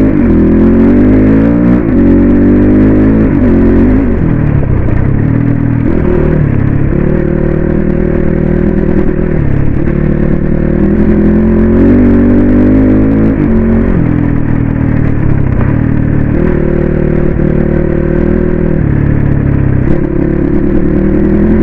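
Suzuki RM250 two-stroke dirt bike engine under way, its pitch repeatedly rising as it revs up and then dropping back as the rider shifts or eases off the throttle.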